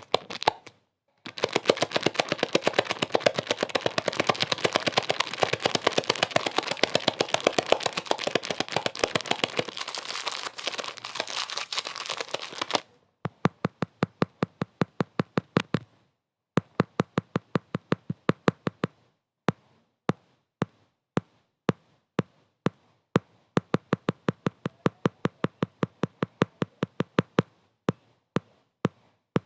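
Crackling clicks: a dense, rapid run of crackles over a hiss for about eleven seconds, then cutting off to separate sharp clicks a few times a second.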